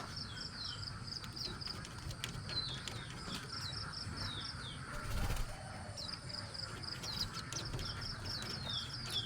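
Small birds chirping repeatedly while feeding: quick strings of short high notes alternating with falling slurred calls. A brief rustling burst, possibly wing flutter, comes about five seconds in.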